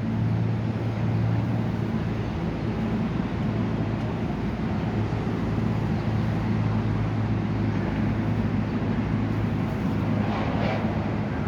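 Steady low mechanical hum over an even background rumble, unchanging throughout, with a faint brief sound about ten seconds in.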